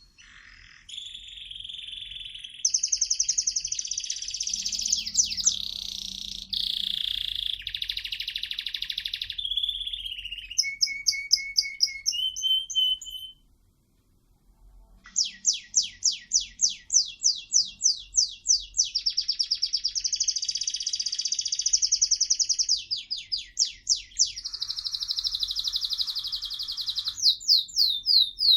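Pet songbird singing long, rapid trills and runs of quick repeated high notes, with a brief pause about halfway through before it starts singing again.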